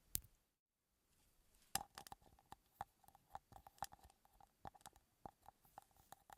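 Faint, close-miked hand textures: one sharp click, then from about two seconds in a run of quick, irregular sticky clicks and crackles.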